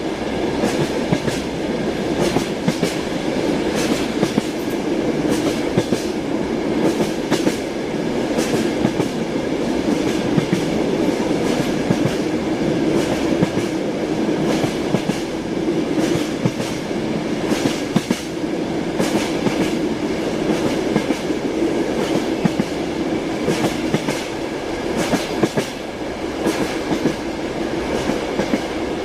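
Train wheels clattering on the rails: a steady running rumble with frequent, irregular clicks and knocks of the wheels over the track.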